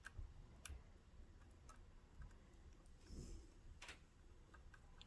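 Near silence with a few faint, sharp clicks and small ticks of a small screw and metal parts being handled and hand-tightened.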